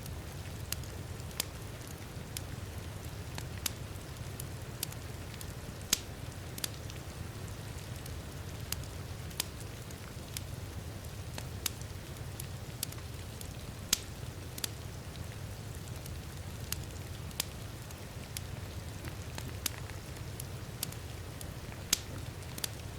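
Wood fire crackling, with sharp, irregular pops about once a second and a few louder ones, over the steady hiss of heavy rain and a low, even rumble.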